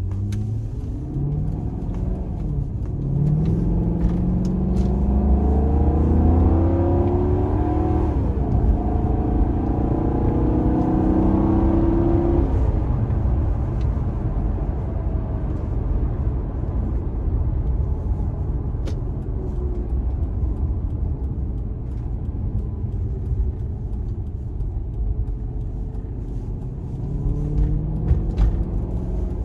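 The Maserati Quattroporte's V8 is heard from inside the cabin as the car accelerates. Its note climbs in pitch and drops back at each of several gear changes, then settles to a steady cruise, and rises again near the end.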